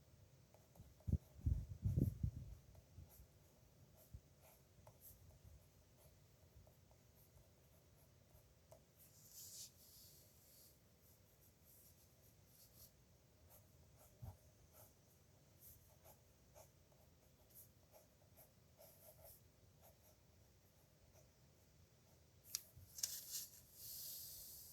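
Dip pen nib scratching faintly across paper as handwriting strokes are made, with short scratchy strokes about ten seconds in and again near the end. A few low thumps about a second or two in, louder than the writing.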